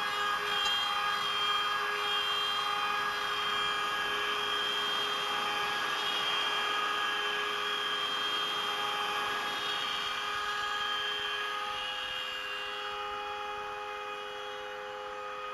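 CNC router spindle running with a steady high whine while a 3.175 mm end mill cuts 18 mm beech plywood. The cutting noise eases off gradually near the end.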